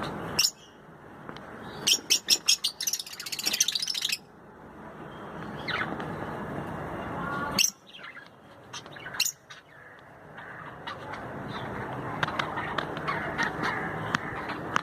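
Pet birds calling: a few sharp, high calls scattered through, and a fast run of repeated chirps lasting about two seconds, starting about two seconds in.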